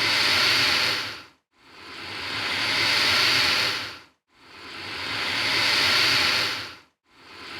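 Alligator hissing: a long hiss that swells in, holds and fades out. It repeats with short silent breaks about every two and three-quarter seconds, three times over and starting a fourth near the end.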